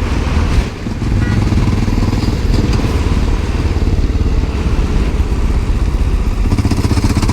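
1988 Honda NX650 Dominator's single-cylinder engine running under way on the road, with wind and road noise, and a brief dip in engine sound under a second in.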